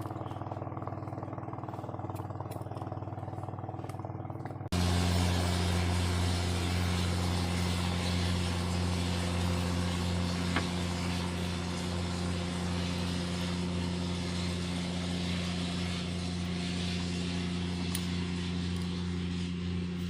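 A small engine running at a steady speed, with a constant low hum. It becomes abruptly louder about five seconds in and then holds steady.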